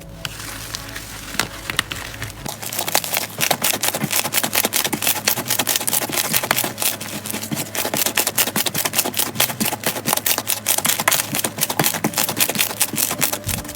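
Slime being pressed and worked by hand, giving a dense, fast run of crackling clicks that starts about two seconds in.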